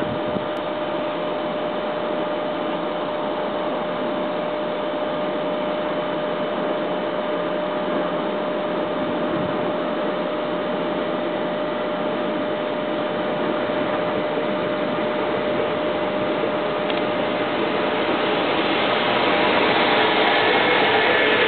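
Steady rushing noise with a faint constant hum from an approaching freight train. It grows louder and rougher over the last few seconds as the train comes nearer.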